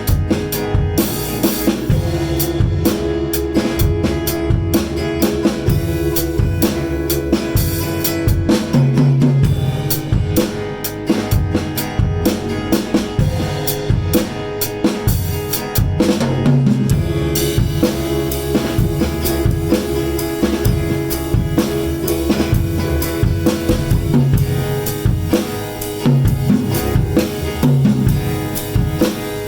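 Improvised instrumental jam of keyboard, electric guitar and drum kit, the drums to the fore with steady kick, snare and rimshot hits under sustained keyboard and guitar notes. From about halfway through, the cymbals fill in more densely.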